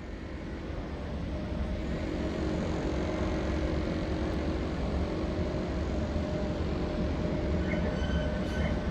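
Train rumbling slowly along the station tracks, its steady low rumble and hum building over the first few seconds and then holding. Faint high squeaks come in near the end.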